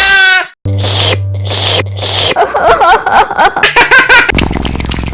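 Laughter, high and wavering, mixed with short noisy bursts over a low steady hum about a second in.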